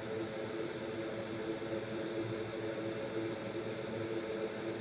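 A steady whir with a faint low hum, as from a small motor-driven fan running on the bench.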